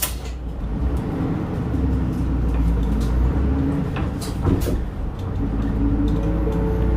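Bus engine and drivetrain running heard from inside the cabin while the bus is under way, a deep steady rumble with the engine note climbing in pitch twice. A few short knocks or rattles come about four seconds in.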